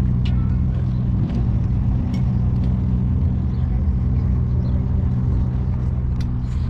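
A car engine running steadily at an unchanging idle, with a few light clicks over it.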